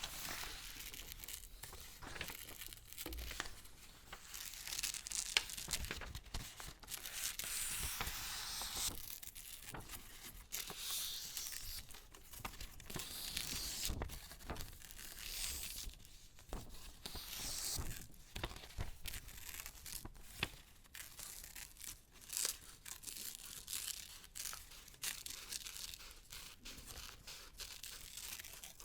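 Paper being handled close to the microphone: crinkling and tearing in uneven runs of crackling, with short pauses between them.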